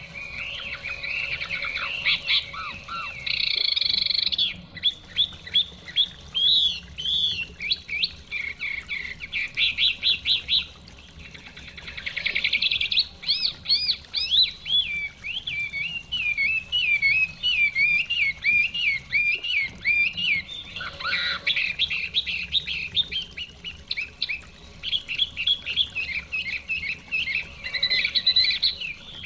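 Chinese hwamei (Garrulax canorus) singing a long, varied song of rapid repeated whistled phrases, with a couple of brief pauses. A faint steady rush of stream water runs under it.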